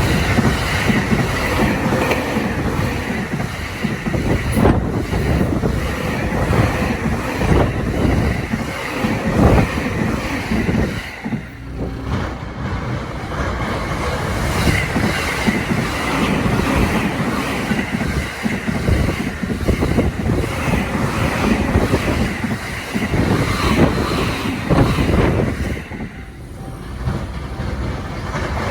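A JR Sobu Rapid Line electric commuter train passing over a level crossing, its wheels knocking and clattering over the rail joints. The noise dips briefly twice.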